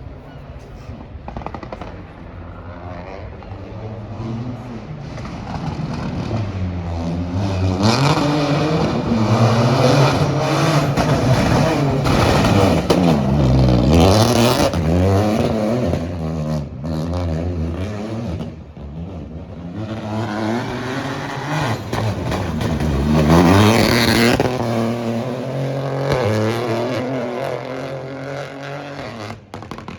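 Rally car engine at full throttle on a stage, its pitch climbing and dropping repeatedly through gear changes. It is loudest about midway and again near the end as it passes close.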